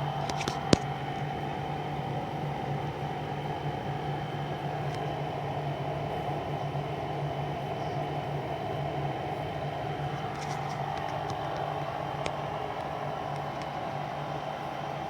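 Pro Breeze 20-litre dehumidifier running with a steady hum and fan noise. A sharp click comes just under a second in, and a few faint ticks come later.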